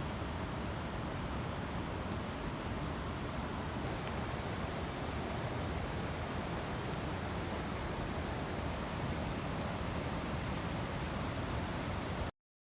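Campfire burning: a steady rushing noise with faint, scattered crackles, which cuts off abruptly near the end.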